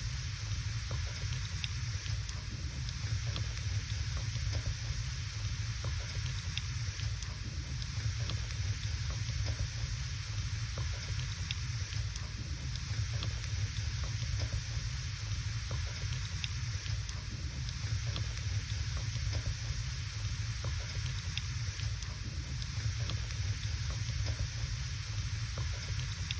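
Wood logs burning in a fireplace: a steady hiss and low rumble of the flames, with scattered small crackles and pops.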